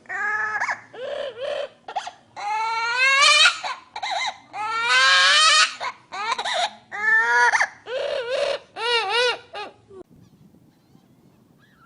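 A goose honking repeatedly in a loud series of calls, several rising in pitch, stopping about ten seconds in.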